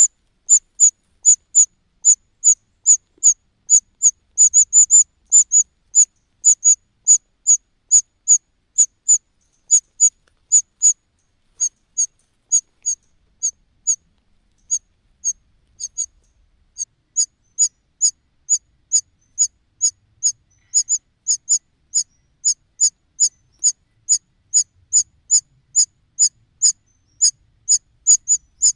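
Cuckoo chick begging: a long run of short, high-pitched calls, about two or three a second, thinning out for a few seconds midway before picking up again.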